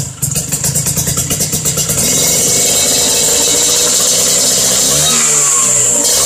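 Vespa scooter engine breathing through an aftermarket racing exhaust with an aluminium silencer, blipped quickly for about two seconds and then held at steady high revs. The revs dip and climb again near the end.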